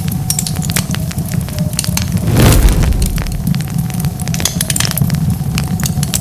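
Wood fire crackling: dense, sharp pops and snaps over a steady low rumble of flame. About two and a half seconds in there is one louder, rushing burst lasting about half a second.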